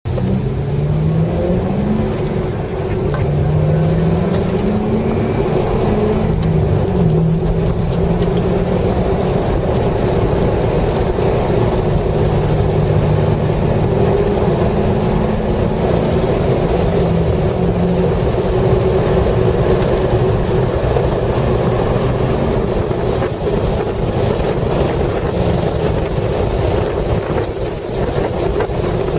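Chevrolet Corvette C6 Z06's V8 accelerating through the gears, rising in pitch three times in the first seven seconds, then held at high revs. It is heard from inside the cabin under heavy wind and road noise.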